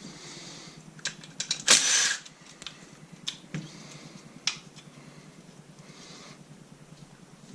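Tools and metal engine parts being handled during an engine teardown: scattered sharp clicks and knocks. About two seconds in comes one loud, short, hissing rattle.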